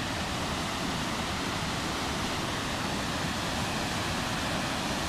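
Little River Falls rushing: a steady, even roar of falling water with no breaks.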